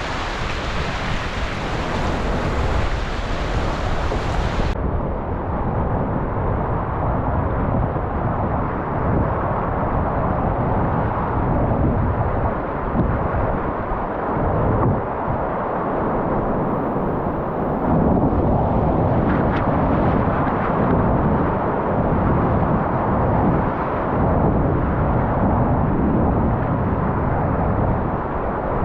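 Wind buffeting the microphone in a loud, fluctuating rumble, over the steady rush of river water.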